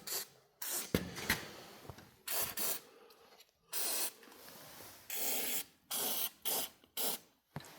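Aerosol can of white lithium grease sprayed through its straw nozzle in a series of short hissing bursts, about eight, each under a second, lubricating garage door rollers and their axles.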